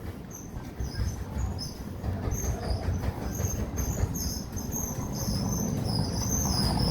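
Outdoor ambience: low wind rumble on the microphone, with many short, high chirps coming irregularly and growing busier toward the end.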